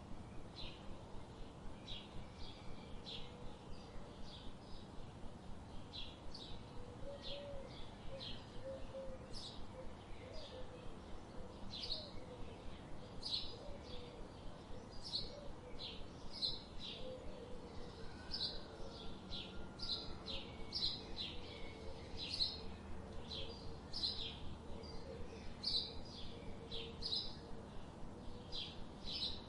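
Forest birds chirping: short, high calls repeating every second or so over a low steady background hiss, with a softer, lower warbling call in the middle part.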